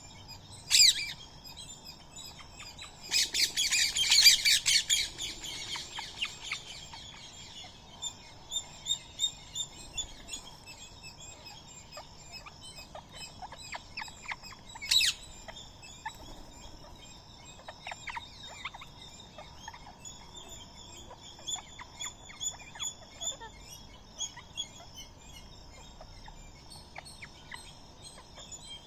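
Birds at a feeding spot chirping and calling steadily, with Indian ringneck parakeets among them. Two sharp, loud screeches come about a second in and about halfway through, and a dense burst of harsh chattering comes about three to six seconds in.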